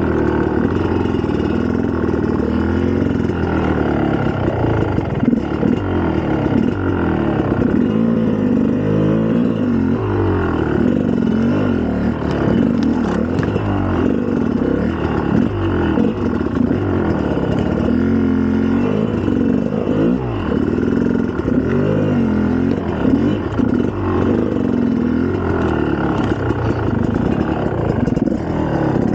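2004 GasGas EC300's 300 cc two-stroke single-cylinder engine running while the dirt bike is ridden, revving up and down continuously as the throttle is worked.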